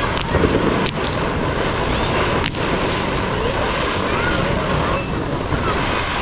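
Fireworks display: a dense, continuous crackle with sharp bangs about a fifth of a second in, near one second and at two and a half seconds.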